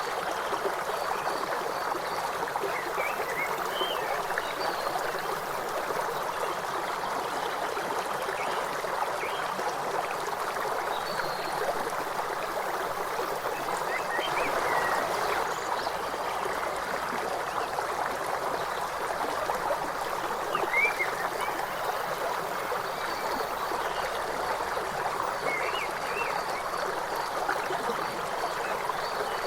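River water flowing and trickling steadily, with birds giving short chirps a few times over it.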